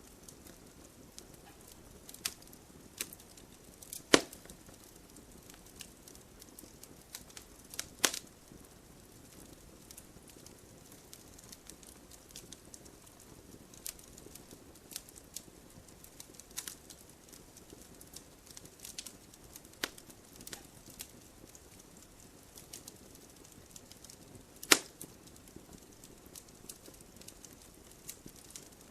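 Logs burning in a wood-burning stove, crackling: scattered sharp pops over a faint steady hiss, with a few much louder snaps among them.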